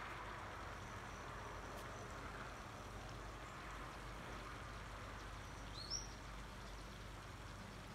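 Steady outdoor background noise, with a single short rising bird chirp about six seconds in.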